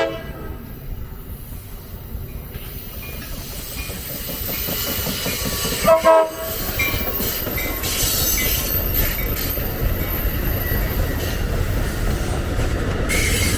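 A rail speeder (motorized track car) running along the rails with a steady rumble that builds over the first few seconds. About six seconds in it gives a brief horn toot.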